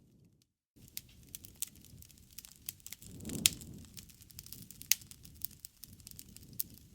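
Wood fire crackling and popping over a low rumble of flames, with a sharp pop about three and a half seconds in the loudest. The sound cuts out completely for a moment just after the start.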